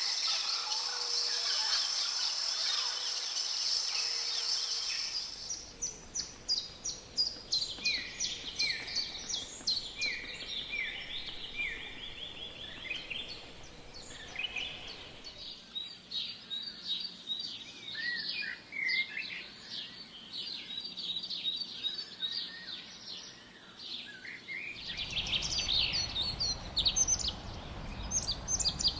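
Several wild forest birds calling and singing, with many short chirps and whistles and, for a stretch, a run of repeated similar notes from one bird. The sound changes abruptly three times, at about 5, 15 and 25 seconds. The opening five seconds are a dense, steady, high-pitched chorus.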